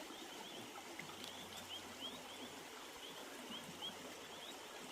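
Quiet outdoor ambience: a small animal's short, high chirps repeat two or three times a second over a faint hiss, with a short pause near the end.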